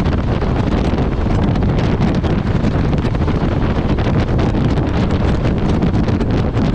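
Loud, steady wind rush buffeting the microphone of a motorcycle riding at highway speed, with the motorcycle's running noise underneath.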